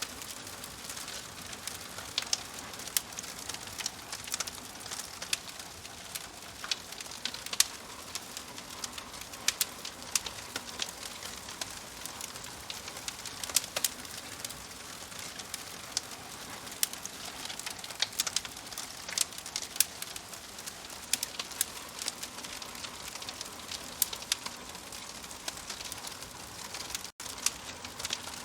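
Wood fire in a fireplace crackling: irregular sharp pops and snaps over a steady hiss, with a momentary gap in the sound near the end.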